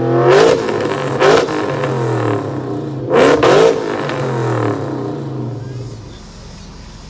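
A car engine revved hard through a loud exhaust, in several sharp blips that rise and fall in pitch, the biggest about three seconds in. The engine then drops back and fades near the end.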